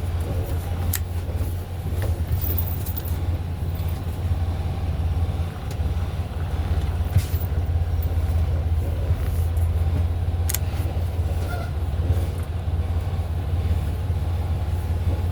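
Semi-truck's diesel engine running at low revs with a steady low drone while the rig creeps slowly, with a few faint clicks.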